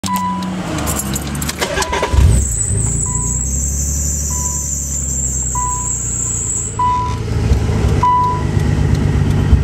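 Nissan 300ZX Z32's 3.0-litre V6 running with its mass airflow sensor left unplugged, heard from inside the cabin. A short electronic beep at one pitch repeats about every 1.2 seconds. A high thin whine comes in about two seconds in and stops near seven seconds.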